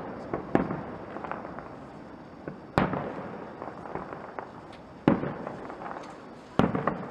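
Fireworks going off: four big sharp bangs about every two seconds, each fading away over a second or so, with smaller pops in between.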